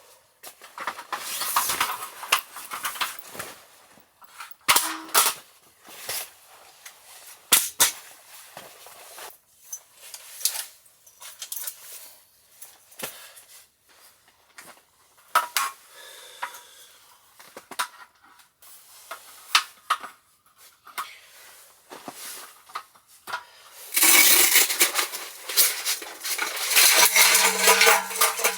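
Camp cookware and utensils clinking and knocking as they are handled, in scattered sharp strikes, then a dense run of clatter near the end.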